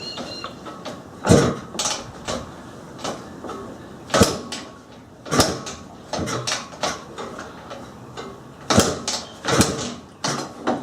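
Kick-starter of a 1980 Husqvarna CR390 single-cylinder two-stroke being kicked over, with a sudden mechanical clatter on each of five or six kicks; the engine does not fire. It had been flooded with the choke left on.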